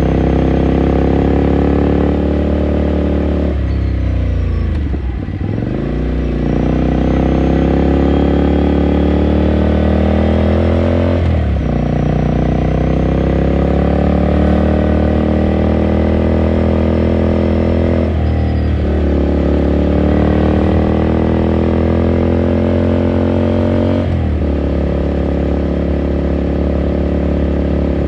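Ducati Scrambler Sixty2's air-cooled V-twin, heard onboard, pulling under throttle. Its pitch climbs steadily and drops sharply at gear changes three times, roughly every six or seven seconds. Around five seconds in the throttle eases off, and the pitch and loudness dip before it pulls again.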